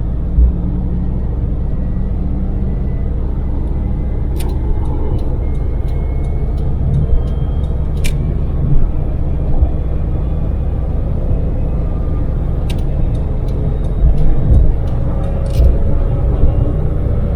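Daewoo Damas microvan's LPG-fuelled three-cylinder engine and road noise heard from inside the cab at expressway cruising speed: a steady low rumble. A few sharp clicks or rattles are scattered through it.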